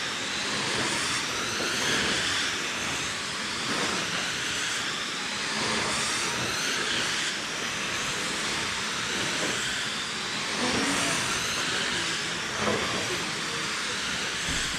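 Electric RC dirt oval cars with 21.5-turn brushless motors racing: several high motor whines rise and fall in pitch as the cars speed up and slow through the turns, over a steady hiss of tyres on dirt.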